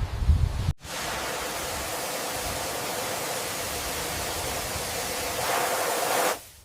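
A few low thuds, then, after an abrupt cut, a steady rushing noise that runs for about five and a half seconds and stops suddenly near the end.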